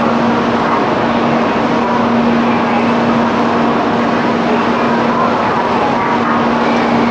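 Stationary 300 series Shinkansen at the platform, its onboard equipment running with a steady, loud, fan-like noise and a constant low hum.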